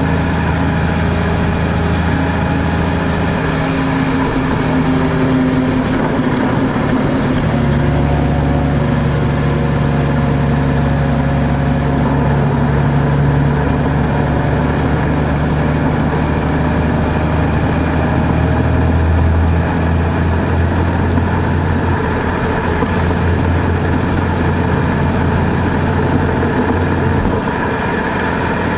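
Car driving on a road: steady engine and road noise, the engine note shifting in pitch a few times.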